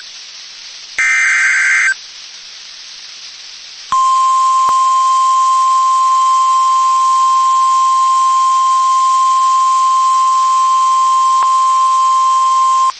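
NOAA Weather Radio emergency alert: a one-second burst of warbling data tones (the SAME alert header) about a second in, then hiss, then the steady 1050 Hz warning alarm tone held for about nine seconds from about four seconds in, signalling a warning is about to be read.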